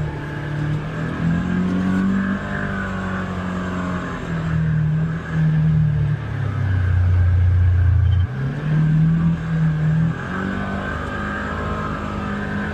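Polaris Xpedition UTV engine running on the trail under changing throttle, its note stepping up and down in pitch. Near the middle it drops to a lower, louder pull for a second or two before rising again.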